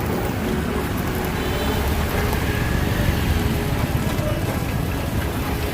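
Steady road traffic: vehicle engines running with a continuous low rumble and noise.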